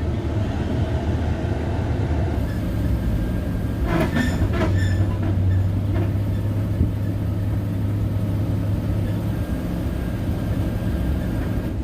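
Truck rolling slowly under tow: a steady low drone with rumbling and rattling, strongest in the middle stretch, with a brief higher sound about four seconds in. This comes during an attempt to tow-start a 1970 Chevrolet C50 dump truck by popping the clutch.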